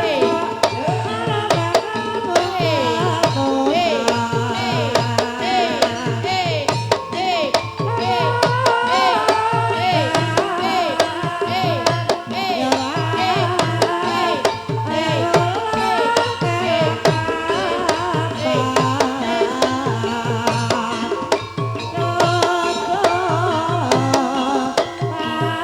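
Banyumas gamelan music accompanying an ebeg dance: kendang hand drums play a steady driving pattern under tuned metal and bamboo instruments, with a singing voice carrying ornamented, bending melodic lines.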